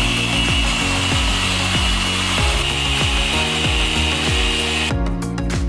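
Machine polisher with a foam pad running on car paint, a steady whirring noise with a high whine that cuts off about five seconds in. Background music with a steady beat plays throughout.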